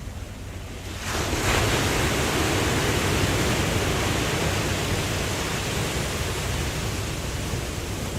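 Ocean wave breaking about a second in, a rush of surf that slowly eases off, over a low steady rumble of the sea.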